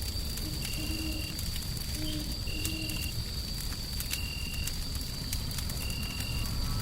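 Crackling wood fire over a steady low rumble of white noise, with a thin high tone held throughout and a short, slightly lower beep-like chirp repeating about every one and a half to two seconds.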